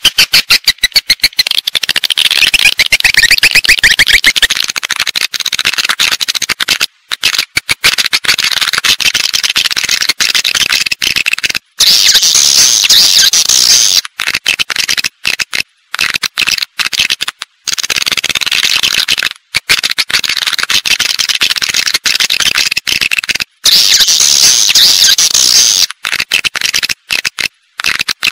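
Swiftlet calls from a lure recording: dense, rapid, high-pitched twittering chirps and rattling clicks, broken by short gaps. It is the sound played in swiftlet houses to draw swiftlets in to roost and nest.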